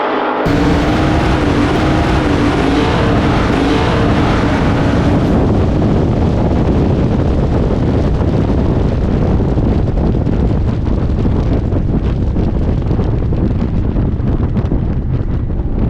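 A car engine running with heavy wind buffeting the microphone. The engine note fades after about five seconds, leaving mostly wind rumble.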